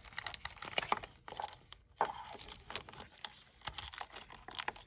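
Irregular plastic clicks, scrapes and rattles of an engine-bay electrical connector being pressed and worked loose by hand, the EGR valve's plug being unclipped.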